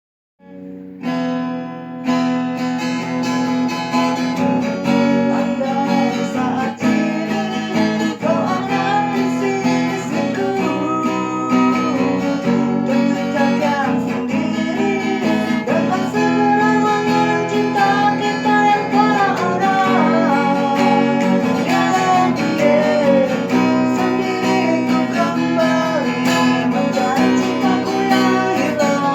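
A person singing to a strummed acoustic guitar: a steady song that starts about half a second in.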